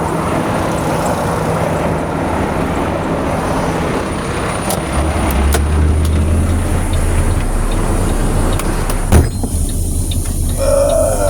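Dump truck's diesel engine running steadily, its low drone growing stronger about five seconds in. A single sharp knock comes about nine seconds in, and after it the sound is more muffled.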